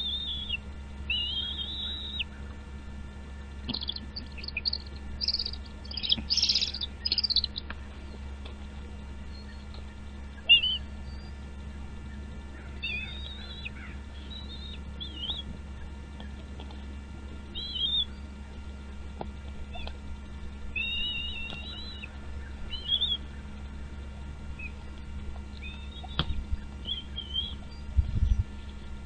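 Birds chirping in short, scattered bursts of high calls, busiest and loudest a few seconds in, over a steady low hum. A couple of low thumps come near the end.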